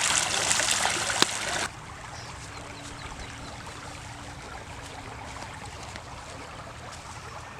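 Loud splashing and churning water that cuts off suddenly about a second and a half in, followed by the quieter steady trickle of river water.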